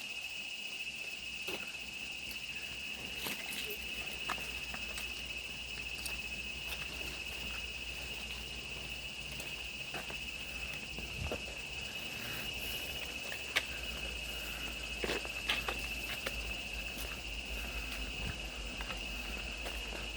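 Steady, unbroken high-pitched drone of insects in tropical forest, with scattered light clicks over it.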